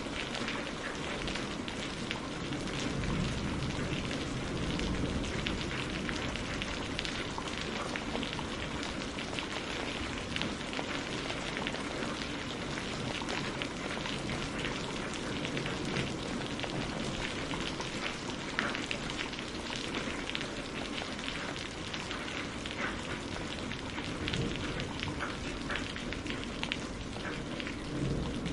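Steady rain falling on a greenhouse roof, a continuous hiss dotted with many small drop taps.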